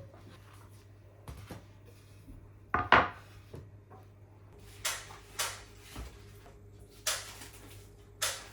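Kitchen handling sounds: scattered knocks and clatter of things being picked up and set down, with one loud knock about three seconds in, then several short scraping or rustling sounds. A steady low hum runs underneath.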